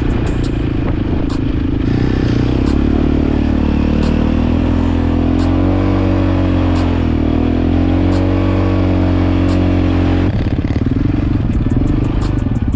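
Pit bike engine running close up, its revs rising and falling as it is ridden, with a sudden drop in pitch about ten seconds in.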